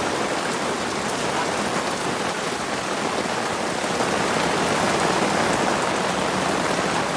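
Heavy rain falling steadily in the forest, an even, unbroken hiss of raindrops.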